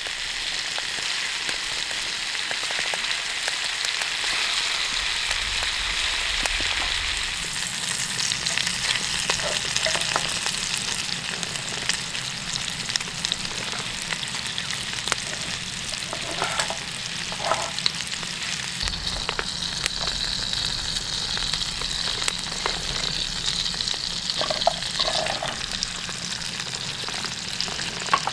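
Food frying in a pan: a steady sizzling hiss with scattered small pops and crackles.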